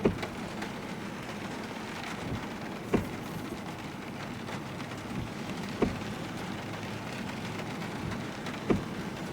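Heavy rain on a moving car, a steady hiss of rain and road noise. A sharp knock comes about every three seconds, four times in all.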